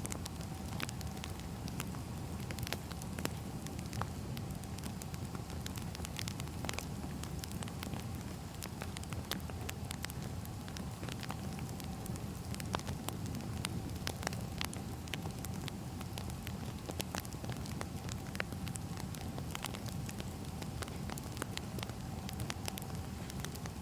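Wood fire crackling: a steady low rush of burning with frequent sharp pops and snaps of firewood.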